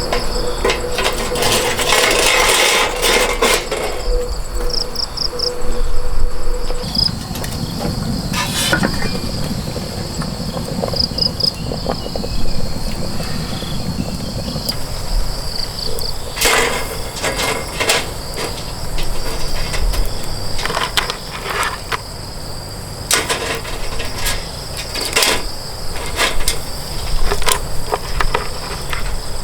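Insects chirping steadily in a continuous high chorus, with scattered sharp knocks and clatters over it.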